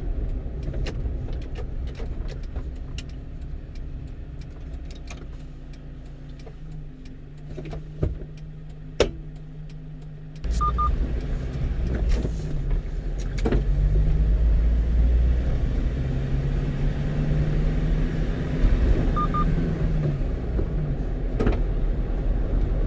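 One-ton truck's engine and road noise heard from inside the cab while driving, quietening at first and then getting suddenly louder about ten seconds in, with the engine pitch rising and falling after that. Two short double beeps sound, one just after the jump and one about nine seconds later.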